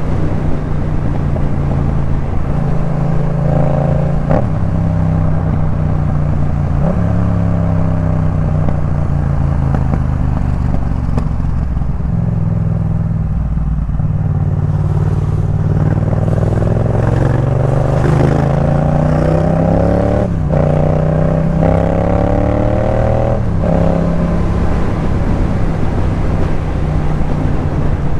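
Yamaha MT-07's parallel-twin engine breathing through a Jeskap K4 full exhaust system while riding. The pitch climbs and drops with gear changes several times, with one long rising pull in the second half cut off by a sudden shift.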